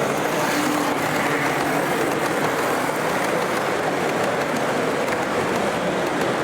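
Steady, even noise of a model train running on an exhibition layout, mixed with the general murmur of a busy exhibition hall.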